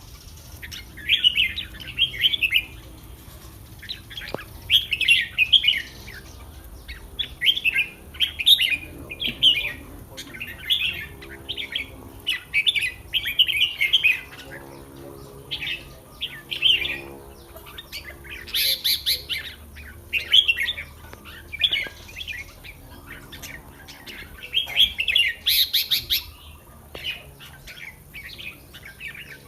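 Red-whiskered bulbul singing short, chirpy song phrases again and again, a second or two apart, with two louder, sharper bursts a little after halfway and near the end.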